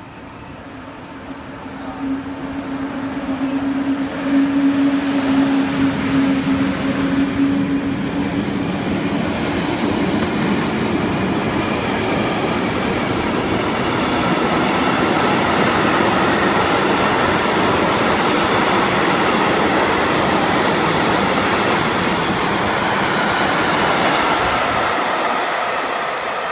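A train approaching and passing close by. It grows louder over the first few seconds, a steady tone sounds for several seconds, then a long steady rush of wheels on rail eases off near the end.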